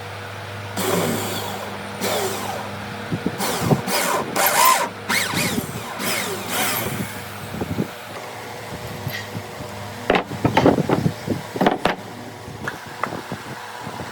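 Wood being worked with tools: a series of noisy strokes, each about a second long, then a cluster of sharp knocks, over a steady low hum.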